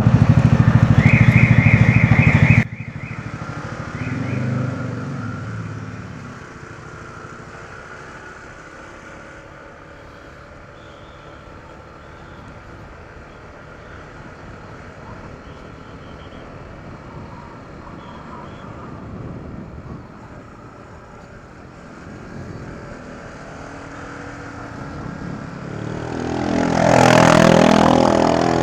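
Honda ADV 160 scooter's single-cylinder engine running loud through its stock exhaust, with a short repeating beep over it. About two and a half seconds in the sound drops off suddenly to a much quieter engine and traffic noise. Near the end a vehicle passes close, swelling loud and then falling away.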